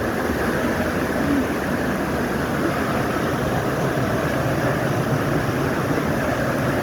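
Steady rushing of a mountain stream, an even noise with no breaks.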